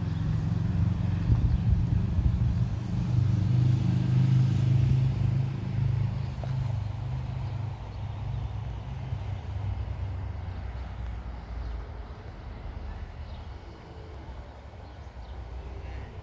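A motor vehicle's engine running close by at steady revs, loudest about four seconds in and then slowly fading away.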